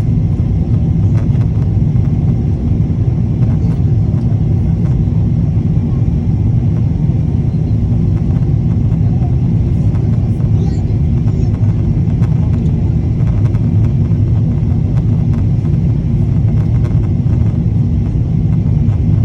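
A steady, loud low rumble that doesn't change, with a few faint clicks over it.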